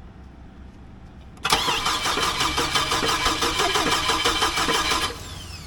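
Starter cranking the rebuilt engine of a Chevy Colorado pickup for about three and a half seconds, beginning about a second and a half in, with an even turning-over rhythm. The engine does not catch; the owner later traces the fault to the ignition fuse. A falling whine follows as the starter spins down near the end.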